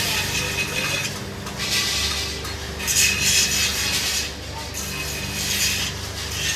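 Irregular rasping, scraping strokes, each lasting under a second, over a steady low machine hum.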